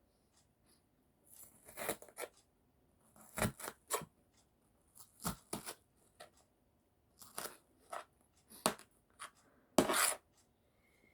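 Kitchen knife cutting onions on a cutting board: irregular crisp slicing strokes in small clusters, with a louder cut near the end.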